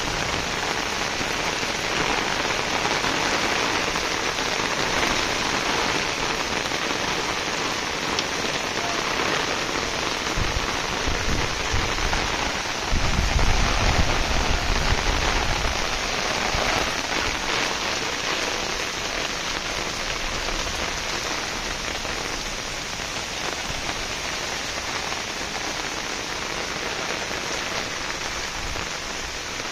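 Heavy downpour of rain, a dense, steady hiss of falling water. Near the middle a low rumble swells for a few seconds and fades.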